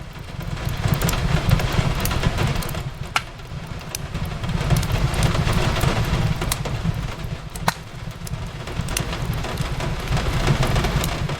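Steady rain on a window with a deep low rumble that swells and eases, and the sharp pops and crackles of a wood fire scattered through it, two louder pops about three and eight seconds in.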